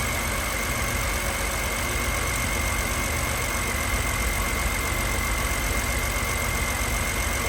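2006 BMW 325i's inline-six idling roughly with a one-cylinder misfire, with a steady high-pitched tone over the engine. The misfire follows the swapped coil, the sign of a failed ignition coil.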